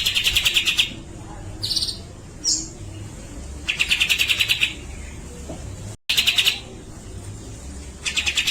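Grey-cheeked bulbul (cucak jenggot) giving repeated rapid rattling chatter, each burst under a second long and made of many quick pulses, with short high whistled notes in between.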